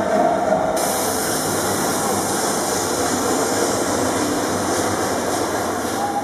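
Recorded train sound effect: a train running steadily along the rails with a dense, rushing rattle.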